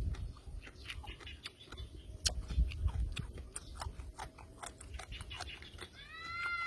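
Close-miked chewing and biting of raw fish and papaya salad: many wet clicks and smacks of the mouth over low thuds. Near the end a steady high-pitched tone with overtones begins.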